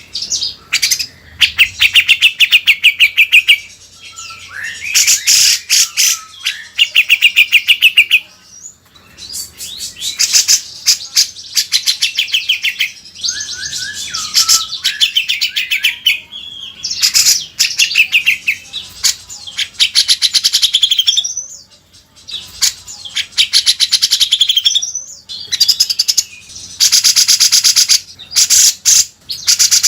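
Cucak jenggot (grey-cheeked bulbul) singing a loud song of fast, chattering trills. The trills come in bursts of one to two seconds with short pauses between them, and are densest near the end. This is the kind of 'gacor' song used as masteran to train caged songbirds.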